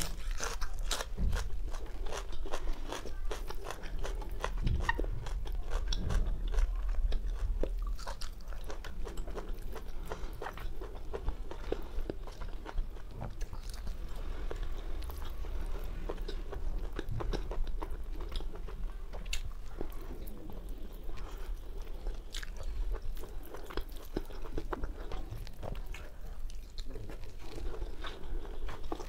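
A person chewing and biting into mouthfuls of whole roasted chicken, a continuous run of small, irregular clicks and crackles from the mouth.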